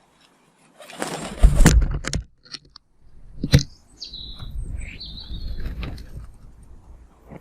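Garden birds: a loud rushing burst about a second in, a sharp knock at about three and a half seconds, then two short high chirps, the first falling and the second rising, over a low rumble.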